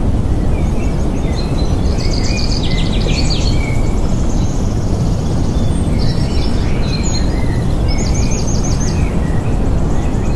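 Several wild birds chirping and calling in quick trills over a loud, steady rushing noise.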